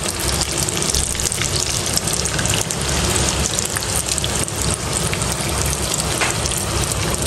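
Chicken tenders coated in flour and egg frying in hot oil: a steady sizzle with many fine crackles.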